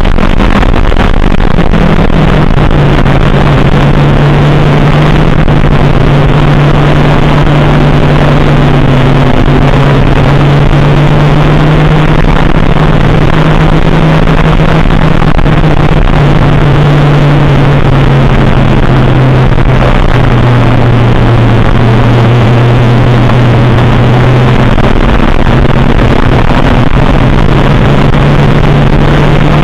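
Race car engine running hard under load, heard from inside the cabin on an overloaded, heavily distorted recording. The engine note drops about two seconds in, sags lower in the middle and climbs again near the end.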